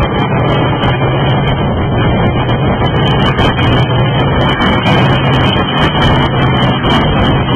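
Double-stack intermodal train cars rolling past at close range: a loud, steady rumble of steel wheels on rail, with frequent sharp clicks.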